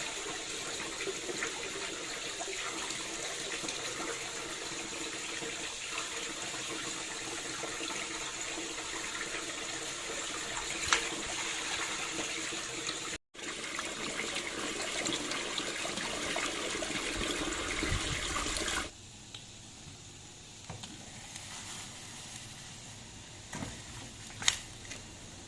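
Water running and splashing steadily, stopping abruptly a few seconds before the end, followed by a quieter background with a couple of sharp knocks.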